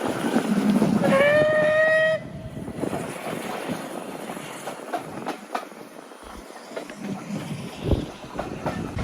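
Steam locomotive whistle sounding once for about a second, rising slightly in pitch as it starts and cutting off sharply. Around it is the train's running noise with scattered clicks and knocks.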